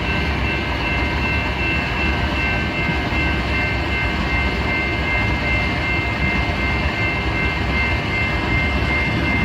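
Freight train rolling slowly into the yard: a steady low rumble under a held, high-pitched metallic whine.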